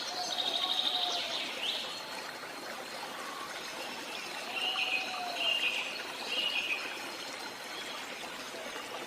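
Steady rush of running water from a jungle waterfall, with birds calling over it: a rapid trill about a second long near the start, and a few short chirping phrases around the middle.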